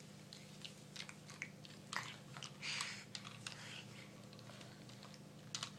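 Faint crunchy chewing: a cat eating a puffed snack, with small irregular clicks and a short crunch about halfway through.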